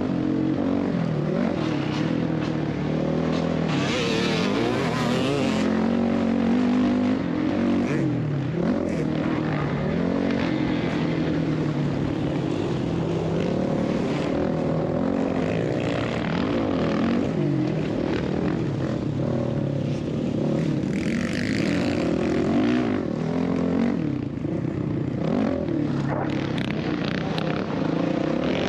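Motocross dirt bike engine running hard, its pitch rising and falling continually as the throttle is opened and closed.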